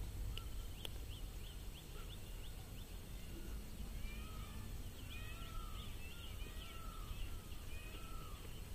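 Small birds chirping: a string of short, arched whistled notes, thickest from about four seconds in, over a steady low background rumble.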